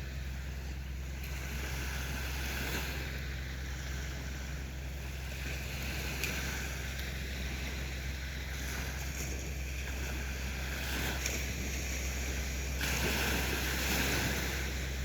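Sea waves washing onto a beach, each wash swelling and fading every few seconds, over a steady low rumble.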